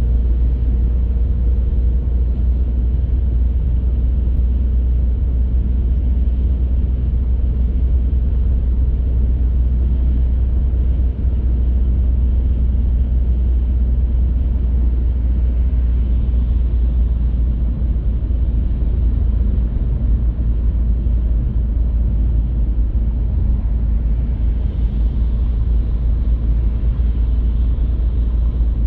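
A car driving at a steady pace: a continuous deep rumble of road and tyre noise with engine sound beneath it, with no change in pace.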